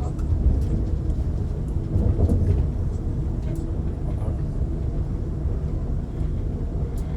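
Steady low rumble of a moving vehicle heard from inside it, with faint voices about two seconds in.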